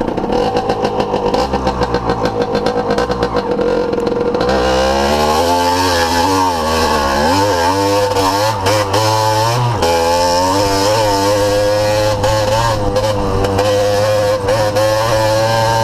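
Yamaha DT 80 LC2's small single-cylinder two-stroke engine under way. It holds a steady pitch for about the first four seconds, then the revs rise and fall repeatedly, with a few brief throttle cuts.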